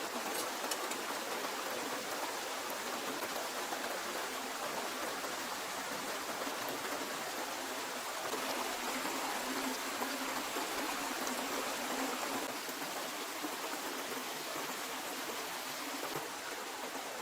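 Steady rushing water noise, even and unbroken, with no distinct drops or splashes standing out.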